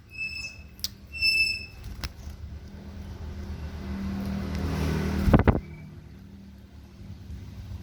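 Two short, shrill bird chirps near the start, then a motor vehicle passing, growing louder toward about five seconds and fading away, with a couple of sharp low thumps as it passes.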